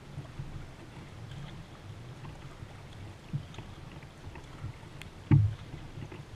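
Kayak paddling: water sloshing and paddle strokes against a low rumble of wind on the microphone, with a few small knocks and one sharp, loud knock about five seconds in, typical of the paddle striking the kayak's hull.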